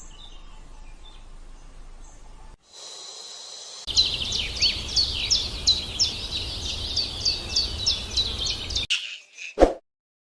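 A bird chirping: a run of quick, high, downward-sweeping chirps, about three a second, over background hiss, starting a few seconds in and stopping abruptly after about five seconds.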